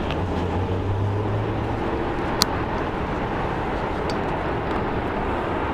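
Steady rumble of jet airliner engines, with a low hum that fades out about two seconds in and a single sharp click shortly after.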